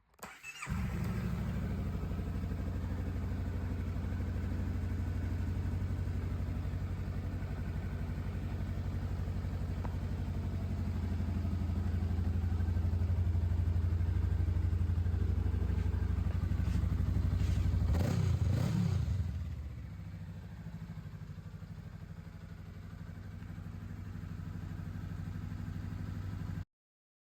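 Honda CMX500 Rebel's parallel-twin engine running at idle. About 18 seconds in its pitch briefly rises and falls as it is blipped, and it then runs more quietly until it cuts off abruptly near the end.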